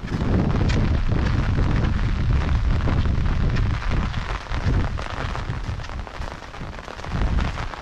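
Rain falling, with a loud, choppy low rumble that jumps up at the start, eases a little after about four seconds and swells again near the end.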